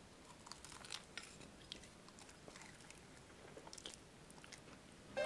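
Faint, scattered crunches of people biting into and chewing crispy Korean fried chicken coated in cheese powder and yangnyeom sauce.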